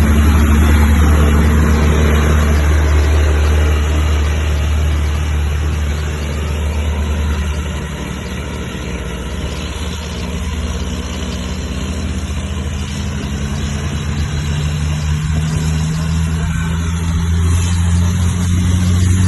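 Heavy truck's diesel engine running at low, steady revs. It eases off a little midway and builds again near the end.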